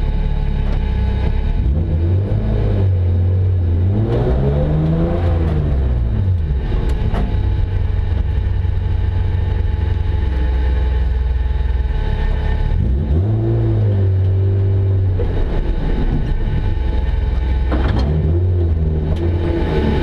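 BMW 325 Group H rally car's engine running at low revs, heard from inside the cabin, with the revs rising and falling briefly a few times, about four, thirteen and eighteen seconds in.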